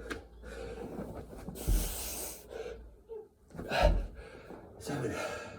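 Heavy, ragged breathing with forceful exhales and gasps from a man doing burpees with push-ups, with two low thuds, about two seconds apart, of his body dropping to and pushing off the floor.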